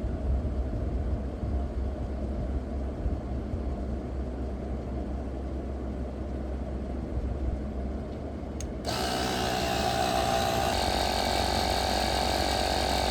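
Small portable air compressor running steadily, pumping up a bicycle inner tube toward about 60 PSI. About nine seconds in its sound turns harsher and slightly louder.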